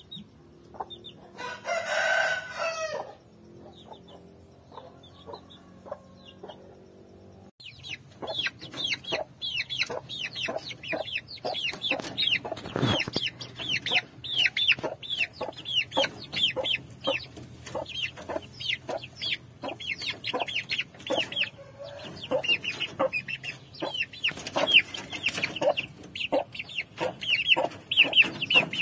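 Aseel chicken chicks peeping: many rapid, short, high chirps overlapping, thickening after a few seconds. One longer, drawn-out call sounds about two seconds in.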